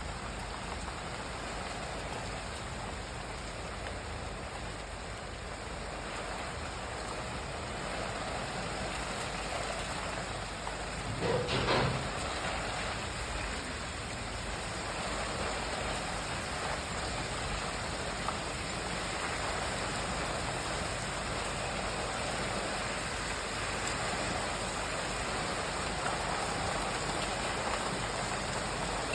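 Steady rain falling, an even hiss. About a third of the way in there is a brief louder noise lasting about a second.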